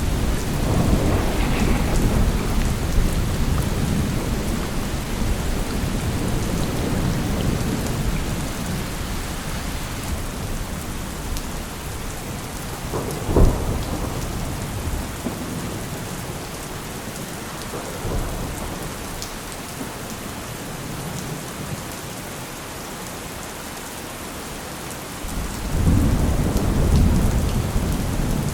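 Steady rain with thunder: a rolling rumble at first, a sharp crack about halfway through, a smaller one later, and another rumble building near the end.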